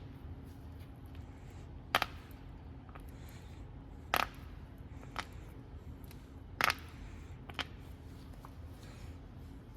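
A few separate sharp clicks and knocks of hard objects being handled, the loudest about two, four and six and a half seconds in, over a steady low hum.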